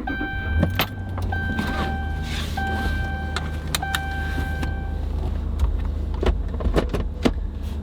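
A pickup truck's engine starts and runs at a steady idle. A dashboard warning chime sounds four times, each tone about a second long, and stops about five seconds in. Sharp clicks sound here and there throughout.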